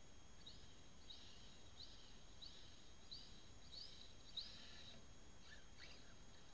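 Near silence with a bird's faint, short rising chirps, repeated about every two-thirds of a second.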